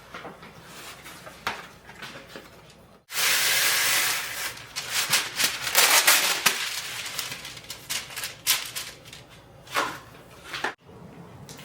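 Kitchen food-preparation sounds: a few light clinks, then, after an abrupt cut, loud rasping, scraping strokes, irregular and uneven, that stop at another abrupt cut near the end.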